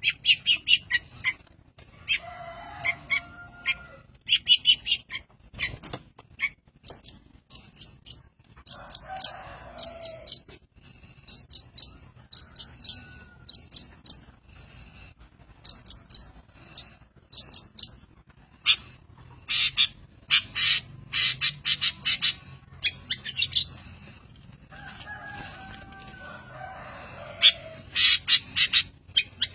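A mimicking songbird singing a long, varied song of rapid short chirps and repeated high notes. A few lower, fuller phrases are mixed in.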